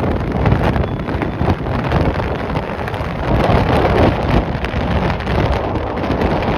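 Strong gusting wind buffeting the microphone with a deep rumble, swelling about halfway through.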